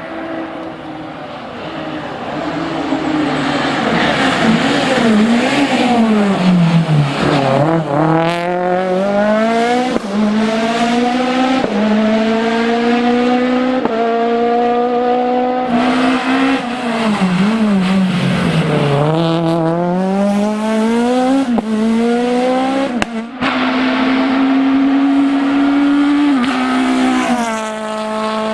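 Citroën Saxo Kit Car rally car's 1.6-litre four-cylinder engine driven hard on a stage. Its pitch falls steeply twice, as the driver lifts and brakes for corners, then climbs back up under full throttle, with a few sharp cracks and some tyre squeal.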